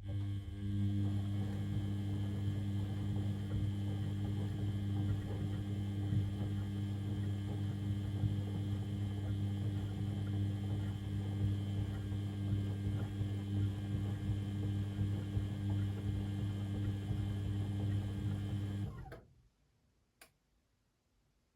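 Beko WML 71433 NP washing machine running with a steady hum, which cuts off about nineteen seconds in. A single faint click follows in the quiet.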